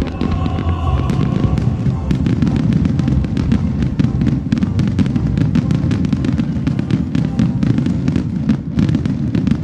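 Aerial fireworks bursting in a dense, rapid barrage: many sharp bangs and crackles over a continuous booming rumble, with the orchestral soundtrack fading under it in the first couple of seconds.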